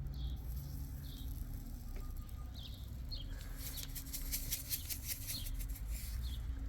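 A small bird chirping repeatedly, short high calls about once or twice a second, over a low steady rumble. Near the middle comes a brief run of rapid crackling clicks.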